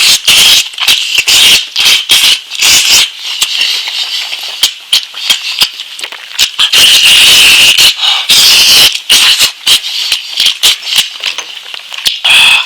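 Close-miked mouth sounds of someone eating lamb: a quick run of crunchy, wet clicks, with a longer stretch of loud chewing noise in the middle.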